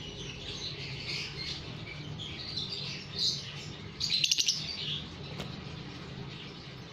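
Lovebirds chirping, with a louder call of rapid repeated notes about four seconds in.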